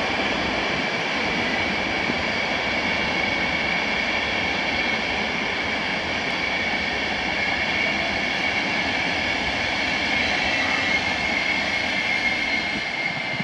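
Passenger coaches of the EP09-hauled EIC Spree express rolling past along the station track: a steady rumble and rush of wheels on rail with a thin, steady high whine over it, easing slightly near the end as the last coaches go by.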